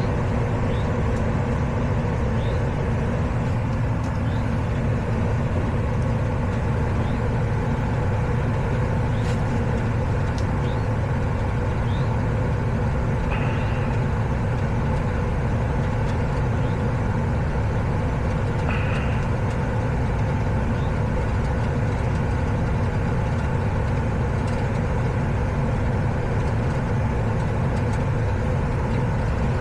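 Central air-conditioning equipment running with a steady, even drone and low hum, the cooling side powered up for testing.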